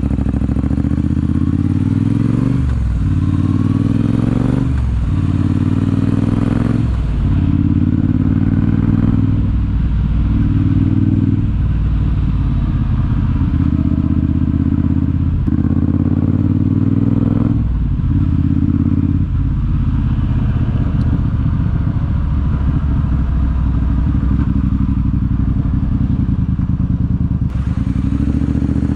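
Triumph T120 parallel-twin engine running through a Zard aftermarket exhaust while the motorcycle is ridden. Over roughly the first two-thirds it goes through several gear changes, each a short break followed by a jump in pitch. After that it holds a steady pitch while cruising.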